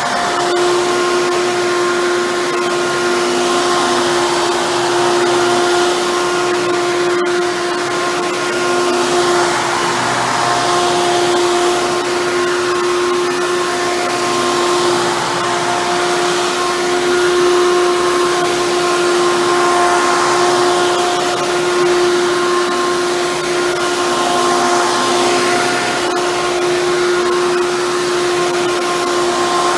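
Hoover Bagless Twin Chamber upright vacuum cleaner running steadily, its motor giving a constant whine over the rush of air.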